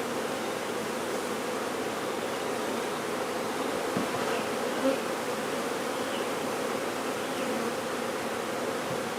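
Honey bee swarm buzzing, a steady dense hum with two light knocks about four to five seconds in.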